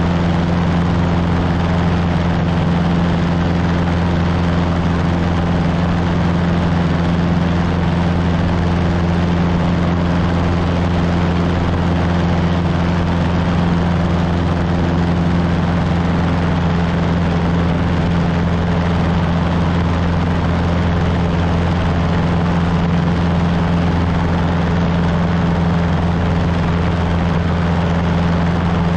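Cessna 150's four-cylinder Continental O-200 piston engine and propeller droning steadily at constant power, a low hum with no change in pitch or level.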